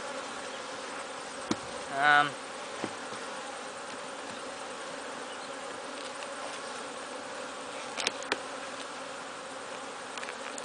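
Steady hum of many honeybees from an open hive during a frame inspection. A short louder pitched sound comes about two seconds in, and a few sharp clicks come near the start and around eight seconds in.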